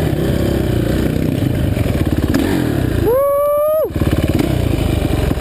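Dirt bike engine running hard under throttle, with wind and clatter on the helmet camera. About three seconds in, a single high, steady note lasting under a second cuts across while the low engine sound drops away.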